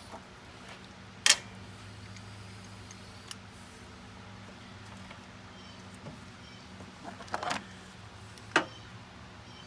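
A few sharp metallic clinks and a brief clatter of hand tools and parts, over a steady low hum.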